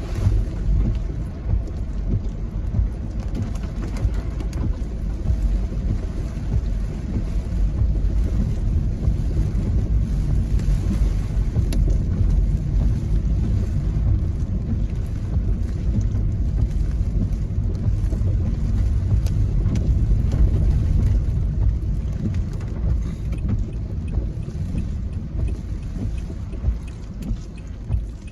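Gusty wind from an approaching typhoon buffeting the microphone: a continuous low rumbling rush that swells and eases.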